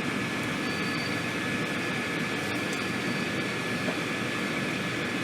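Madrid Metro Line 5 train running: a steady rumble with a thin, steady high whine above it.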